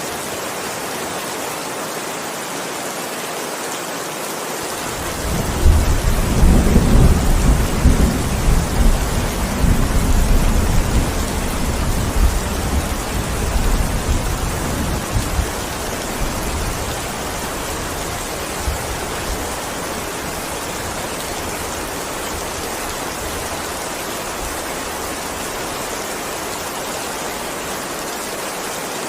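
Steady heavy rain with a deep thunder rumble that starts about five seconds in, peaks over the next few seconds and fades away after about ten seconds.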